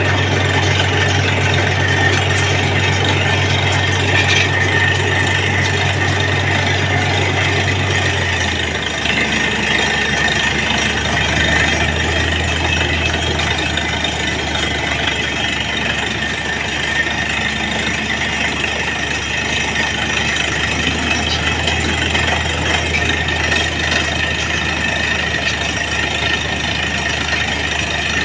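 Heavy diesel engine of a truck-mounted borewell drilling rig running steadily under a constant rushing noise. About eight seconds in, its pitch drops as the engine slows, and it runs on at the lower speed.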